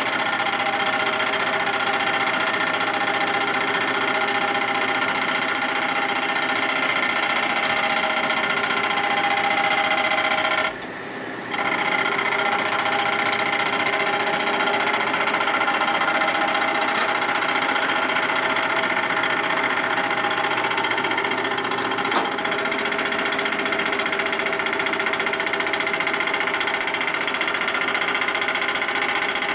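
A milling cutter takes a heavy cut across a chrome-plated Harley primary cover, a steady loud machining noise with many ringing tones. It dips briefly about eleven seconds in and then resumes.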